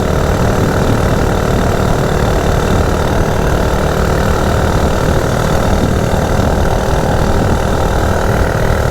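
Coleman CT100U minibike's small single-cylinder engine running steadily at high revs under full throttle while riding; with its governor removed it holds higher RPM than stock.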